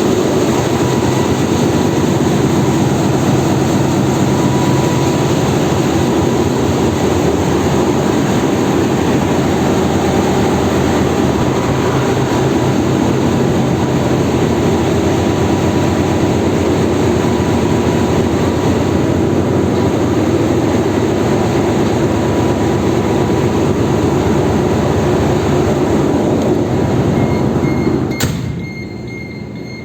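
Loud, steady drone of a tanker's engine-room machinery, a deep hum under a wide hiss. It drops off suddenly about two seconds before the end, leaving a quieter hum.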